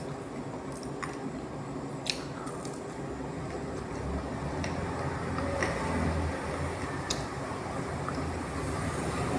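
Someone biting and chewing crunchy fried sweet potato, with a few sharp crunches. A low rumble joins about four seconds in.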